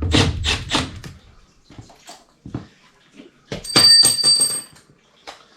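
Knocks and clatter of handling work, loudest in a cluster of knocks from about three and a half to nearly five seconds in, which carries a brief high ringing tone.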